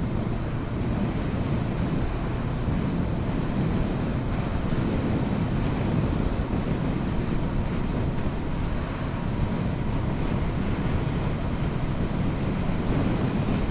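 Steady wind noise over the microphone of a Honda CB500F motorcycle under way, with engine and road noise beneath it.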